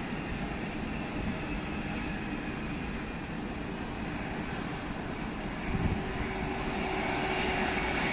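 Jet engines of a Boeing 767-300ER freighter running with a steady rush. About five and a half seconds in, a steady whine comes in over it, and the sound grows a little louder near the end.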